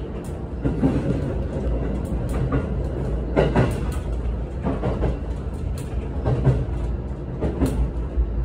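Running noise heard from inside a passenger train's carriage: a steady low rumble with irregular clicks and clacks of the wheels over rail joints, as the train nears its terminal stop.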